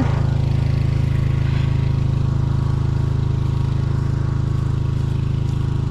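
Small engine running steadily at a constant speed, a low even drone with a fast regular pulse.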